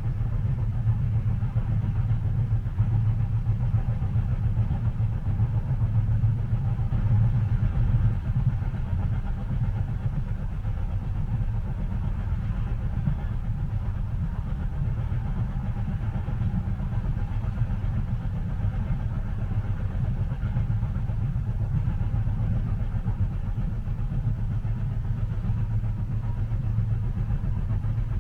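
Steady low rumble of a train carriage running along the track, heard from inside the cabin, without any distinct clicks from the rail joints.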